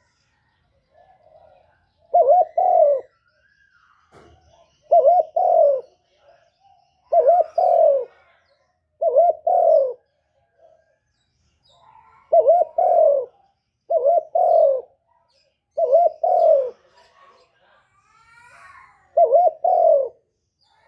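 A bird calling a loud two-note coo over and over, eight times, about every two seconds, with faint higher chirps between the calls.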